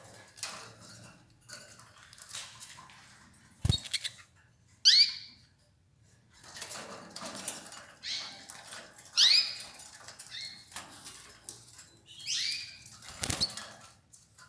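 Domestic canaries giving short calls that drop in pitch, about five times, amid rustling, clicking and wing flutters. There are two sharp knocks, one about four seconds in and one near the end.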